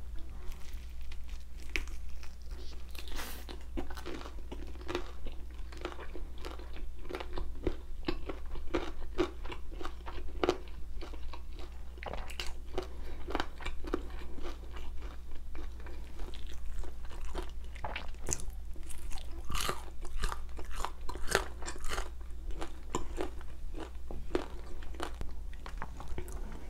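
Close-miked chewing of spicy bone-in chicken feet: a dense, irregular run of wet crunches and clicks, busiest about two-thirds of the way through.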